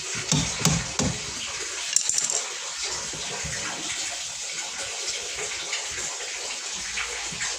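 Steady rush of running water, with a few knocks in the first second and a short clatter about two seconds in.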